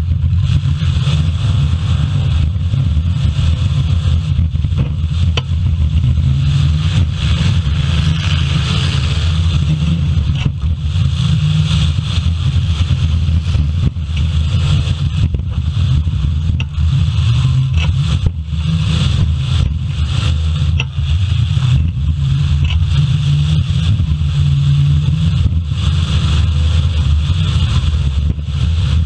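Several full-size demolition derby cars' engines running loud and revving, with many sharp crunches of cars colliding.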